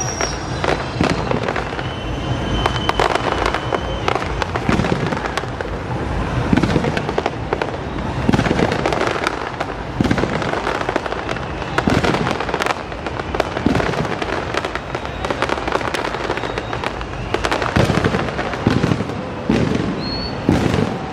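Fireworks display: a dense, continuous barrage of bangs and crackling reports, with a few brief high whistles among them.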